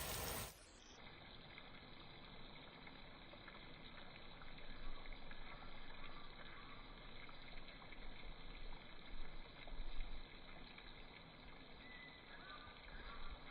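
Water running and trickling in a steady wash of noise, with irregular low bumps from handling, during a toy-car wash. A brief loud burst comes at the very start.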